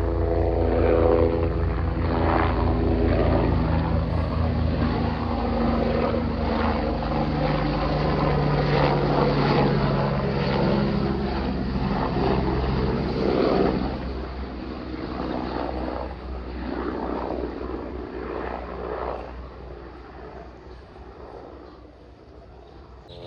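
Aircraft passing overhead. Its engine tone drops in pitch as it goes by, stays loud for about the first half, then fades away over the last several seconds.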